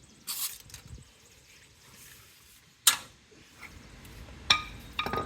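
Sharp metal knocks and clanks as a transmission on a jack is pulled back from the engine: a short scrape near the start, one loud knock about three seconds in, and two more knocks with a brief metallic ring near the end.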